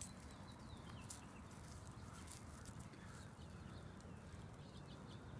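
Quiet outdoor ambience with a few faint, scattered bird chirps.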